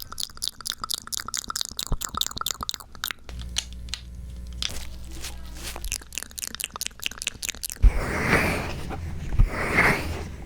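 Close-miked ASMR trigger sounds on a binaural microphone: a quick run of clicks, then softer scattered crackles, then two broad rustling swells near the end.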